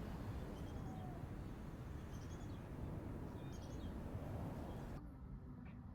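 Steady outdoor background noise with three brief groups of short, high bird chirps, spread over a few seconds. Near the end the background noise drops away suddenly to a quieter sound.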